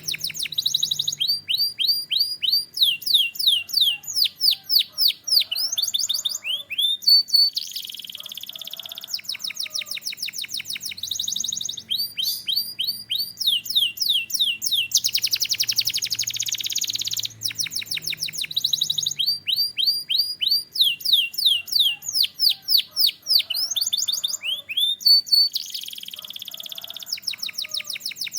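Domestic canary singing a continuous song of rapid downward-sweeping notes and fast, dense trills in high repeated phrases. The same sequence of phrases comes round again about halfway through.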